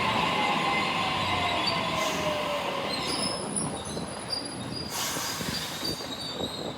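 Sydney Trains Waratah A-set electric commuter train pulling into the platform. Its motor whine falls steadily in pitch over the first few seconds as it slows, under thin, high wheel and brake squeal.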